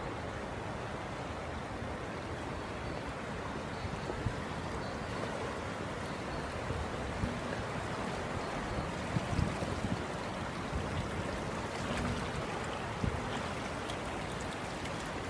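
Steady rush of flowing floodwater, with a few brief low thumps in the middle and later part.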